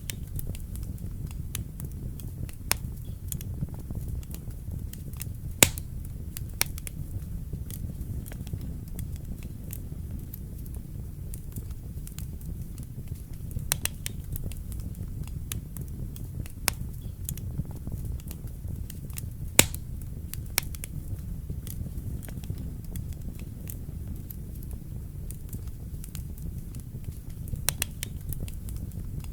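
Wood fire burning in a fireplace: a steady low rumble of the flames with irregular crackles and sharp pops, the loudest pops about six seconds in and about twenty seconds in.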